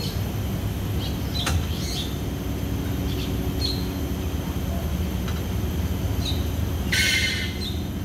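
Birds chirping in the background: short high chirps every second or so, and a louder, harsh call about seven seconds in, over a steady low rumble.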